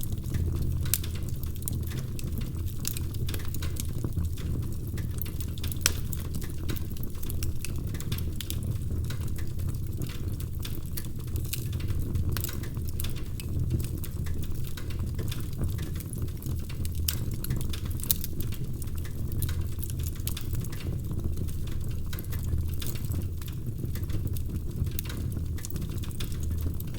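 Wood fire in a fireplace crackling, with frequent small sharp pops and snaps over a steady low rumble of the flames.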